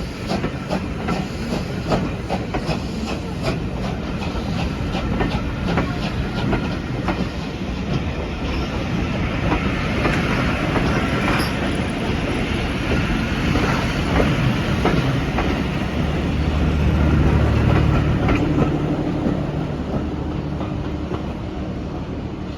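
Train running on the line, its wheels clicking over the rail joints in a quick, even rhythm. A low rumble builds to its loudest about three quarters of the way through, then eases.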